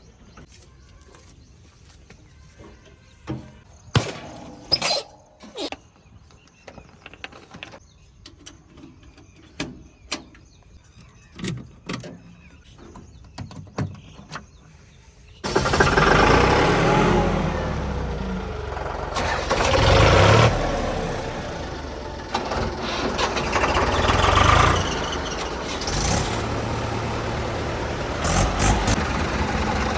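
Scattered clicks and knocks over a quiet background, then about halfway in a tractor's diesel engine comes in suddenly and loud, running with its level swelling and easing a few times.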